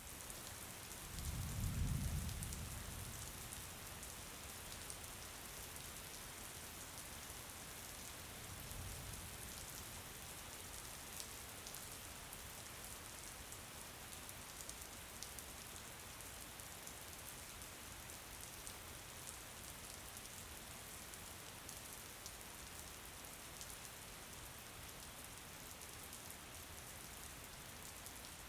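Steady rain falling on a surface, with scattered sharp drop ticks. A low rumble swells about a second in and fades, and a fainter one comes around nine seconds in.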